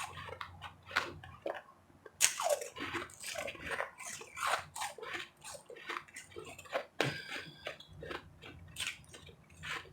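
A person biting into and chewing powdery refrozen ice close to the microphone: dense, irregular crunching, loudest about two seconds in.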